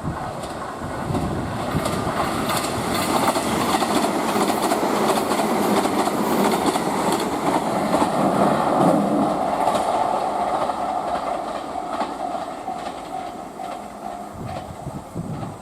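A passenger train running along the track, its wheels clacking over the rail joints in a rapid series. The sound builds over the first few seconds and fades toward the end, with a steady tone in the middle stretch.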